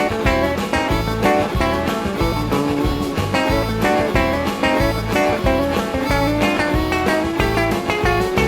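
Guitar and harmonica playing a country blues tune: the guitar keeps a steady rhythmic bass pulse under a held, bending harmonica melody.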